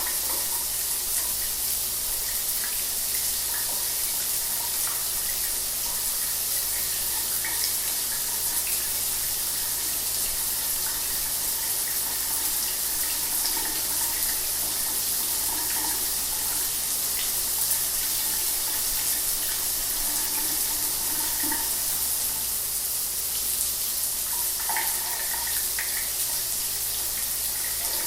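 Shower running steadily: an even hiss of falling water, strongest in the high range, with a faint steady low hum beneath.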